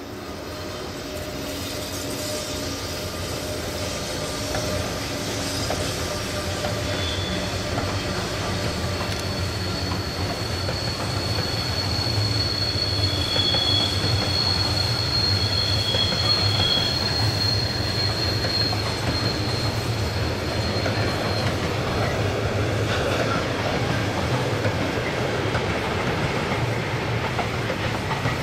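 Train running on the Semmering mountain railway, its steel wheels squealing against the rails in high thin tones over a steady rumble. The sound grows louder over the first dozen seconds, then holds, and the squeal dies away about three-quarters of the way through.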